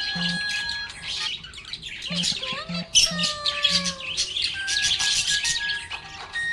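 Budgerigar chirping and warbling in quick bursts, over background music with a simple stepped melody.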